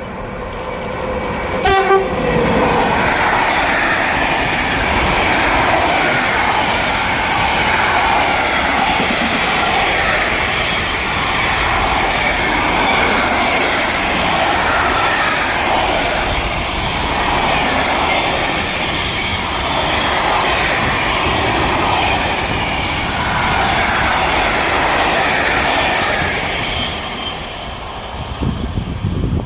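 A train gives a short horn blast about two seconds in, then passes at speed with a steady rush of wheel and rail noise that lasts some twenty-five seconds and fades near the end.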